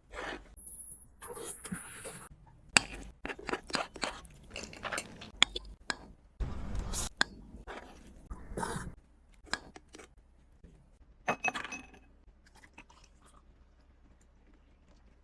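Close-miked eating: a person chewing a mouthful of macaroni with minced meat and cheese, in irregular clicks and short bursts that die away about twelve seconds in.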